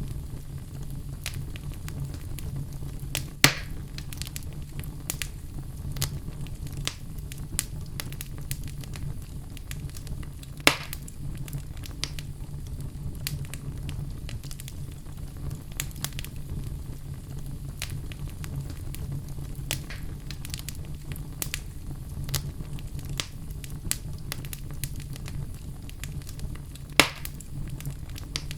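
Wood logs burning in a fireplace: a steady low rumble of flame with frequent small crackles. Three loud sharp pops stand out, about three seconds in, about eleven seconds in, and near the end.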